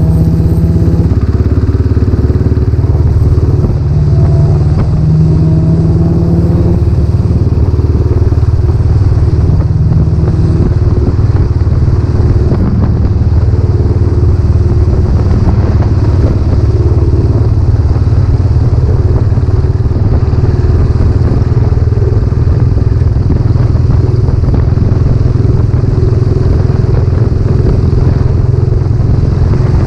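Royal Enfield Classic 500's single-cylinder engine running on the road through a newly fitted exhaust silencer. Its pitch rises and falls a few times in the first ten seconds, then holds steady.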